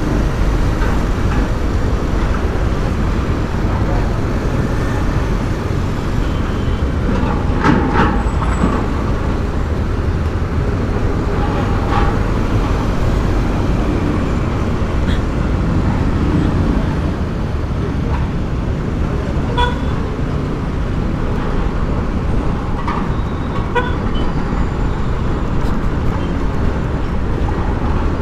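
Road noise from riding a motorcycle in city traffic: steady engine and wind rumble, with short vehicle horn toots about eight and twelve seconds in and a few more later.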